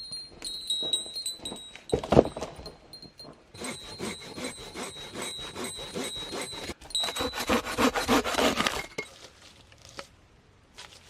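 Metal jingling and clinking, with a high bell-like tone ringing through it. The clinking is densest in the middle and dies away near the end.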